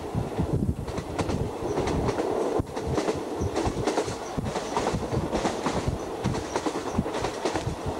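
Passenger train running along the track, heard from aboard a moving carriage: a continuous rattle and rumble with dense, uneven clattering knocks from the wheels and coach.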